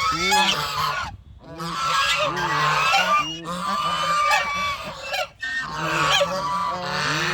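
Ducks calling loudly, several overlapping honking calls in quick succession, with brief pauses about a second in and again past the five-second mark.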